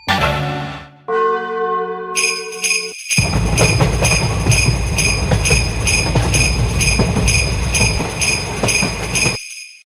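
Railway level-crossing warning bell ringing in rapid, evenly spaced strikes, starting about two seconds in. A low rumble runs under it from about three seconds in, and a steady held chord sounds just before the bell starts.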